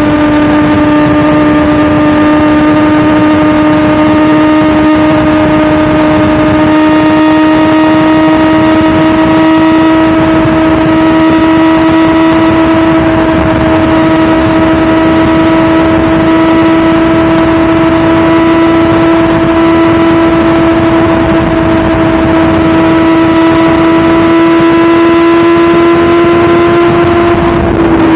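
2017 BMW S1000RR's inline-four engine running at high, steady revs under way, its pitch creeping slowly upward.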